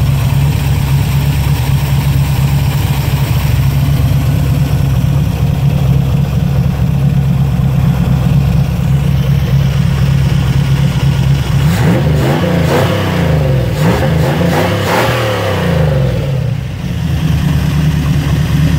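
TVR's 4.0-litre Rover-derived V8, fed by a Holley 600 cfm four-barrel carburettor on a dual-plane manifold, idling steadily. About twelve seconds in it is revved up and down a few times over some four seconds, then settles back to idle. The owner offers this as proof that the 600 cfm carb runs well on this engine and pulls far better than the old 390.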